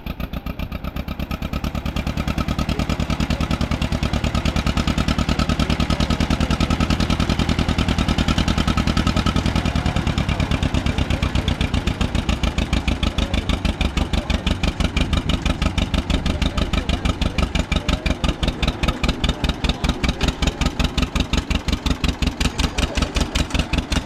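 An antique engine running steadily at idle with an even, rapid putter.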